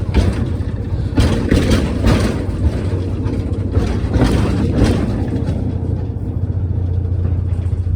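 Little diesel tourist train running on its track: a steady low engine hum with irregular clacks and rattles during the first five seconds.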